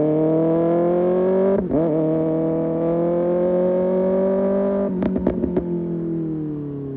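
Kawasaki ZX-6R's inline-four engine through an Arrow Pro Race exhaust, pulling hard with the revs climbing steadily. There is a quick upshift under two seconds in, then it pulls again. Near the five-second mark the throttle closes with a few sharp exhaust cracks, and the revs then fall away on the overrun.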